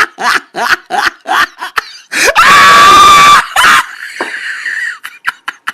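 A voice in quick rhythmic bursts, about three a second like rapid laughing, then a loud, high, sustained scream lasting about a second, about two seconds in.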